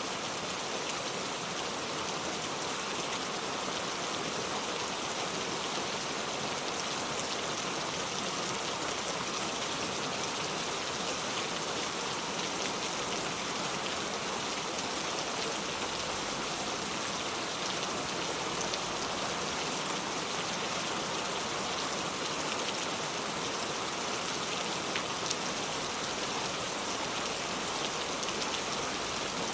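Steady rain falling, a dense even hiss of drops with a few sharper individual drops standing out.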